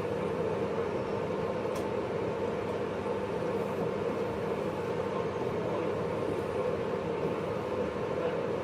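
JR East 583 series electric train running at steady speed, heard from inside motor car MoHaNe 582-106: an even rumble of wheels on rail. A brief click comes about two seconds in.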